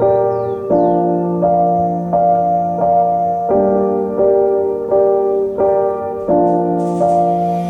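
Background music: piano playing slow, evenly spaced chords, a new one struck about every three quarters of a second.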